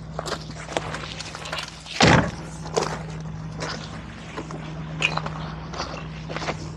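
Jeep crawling slowly over a rocky trail: the engine hums low and steady while the tyres crunch and knock over rocks, with one heavy thump about two seconds in.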